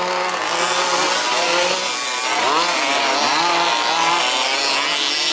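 Several 1/5-scale RC buggies' small two-stroke petrol engines racing at once, their overlapping buzzing notes rising and falling as the drivers throttle up and back off.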